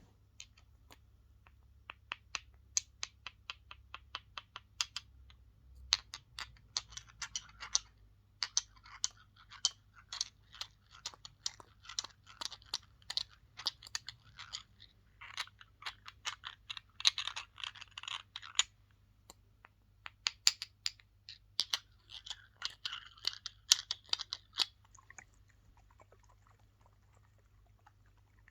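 Fast tapping and scratching on small objects, heard close up: quick sharp taps several a second mixed with scratchy rubbing. It stops about 25 seconds in.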